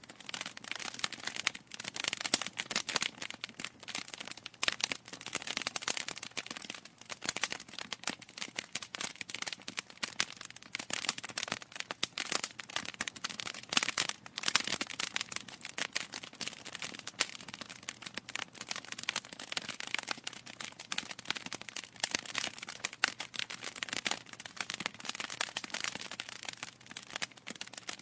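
Wood fire burning in a fireplace, logs crackling steadily with frequent sharp pops and snaps.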